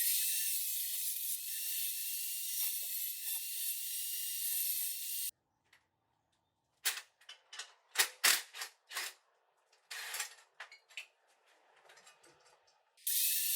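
A power cutting tool cutting the steel exhaust pipe to square off the angle: a steady hiss with a faint wavering whine that stops abruptly about five seconds in. After a short pause comes a quick run of sharp metallic clicks and knocks, and near the end the cutting hiss starts again.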